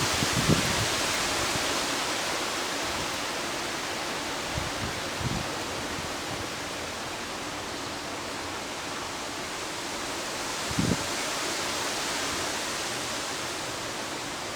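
Heavy rain pouring steadily in a thunderstorm, a dense even hiss, with a few short low knocks, the clearest about eleven seconds in.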